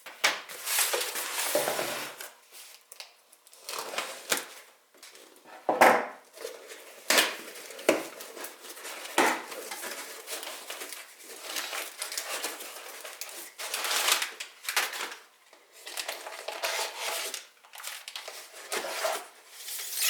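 Packaging being opened and parts handled: irregular rustling and crinkling broken by sharp knocks and clatters, with a loud knock about six seconds in.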